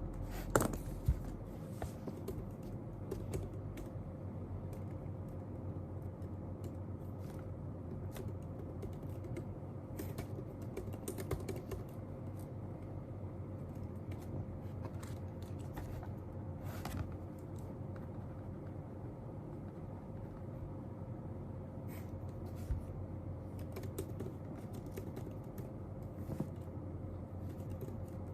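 Irregular typing on a computer keyboard: scattered key clicks with a few louder taps about a second in, over a steady faint hum.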